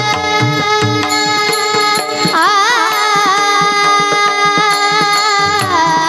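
Marathi devotional kirtan music: long held instrumental notes over steady hand-drum strokes, with a singing voice gliding up and down in pitch about two and a half seconds in.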